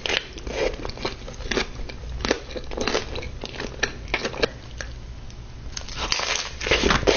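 Irregular crunching and crackling of a homemade cheesy gordita crunch's hard taco shell, with a denser, louder run of crunches near the end.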